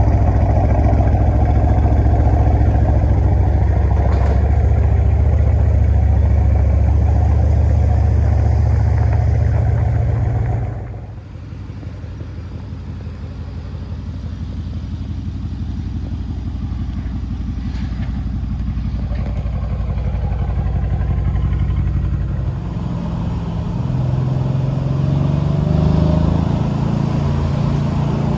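Mercedes-AMG C63's twin-turbo V8 running loud and deep, then dropping abruptly to a quieter, lower idle about ten seconds in. The sound slowly builds again, and near the end the engine pitch rises as it revs or pulls away.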